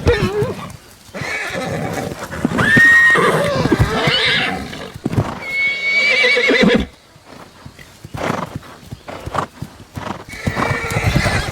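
Horses fighting: shrill squeals and neighs mixed with hoof stamps and thuds. Two long high squeals stand out, with quieter hoof knocks in a lull near the end before the calls pick up again.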